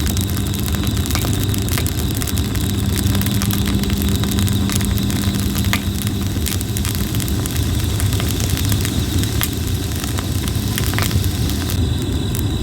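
Red plum firewood burning, crackling with frequent sharp snaps and pops over a steady low rumble.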